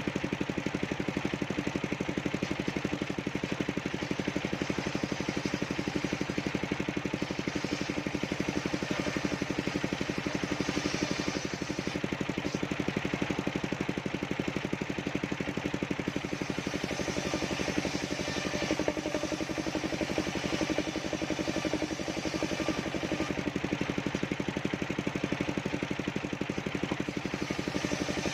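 The engine driving a mobile circular sawmill, running steadily with a fast, even beat. A higher, noisier layer swells at times, around a third of the way in and again in the middle.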